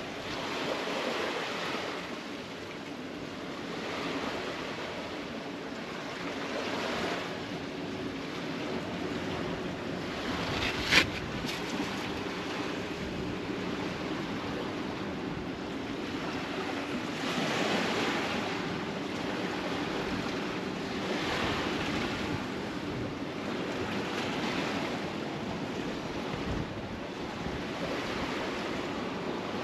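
Sea waves washing against a tetrapod breakwater, the surge swelling and falling back every few seconds. A single sharp click sounds about eleven seconds in.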